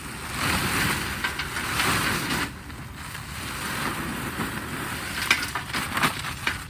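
Red lava rocks poured into a brick fire pit: a grainy rattle of small stones in two spells, then a few separate clacks near the end.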